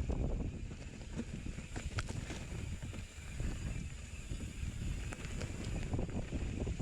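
Wind buffeting the microphone: an uneven, gusty rumble, with a few faint clicks and knocks, once about two seconds in and again about five seconds in.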